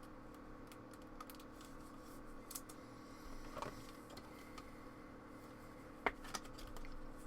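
A few faint, light clicks and taps over a steady low electrical hum, with two sharper clicks about six seconds in.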